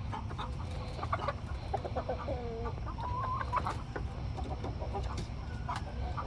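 Chickens clucking, with many short clucks and a few longer wavering calls in the middle.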